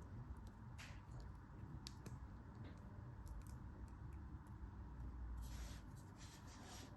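Faint, crisp strokes of a knife cutting: a few scattered single strokes, then a quick run of them near the end.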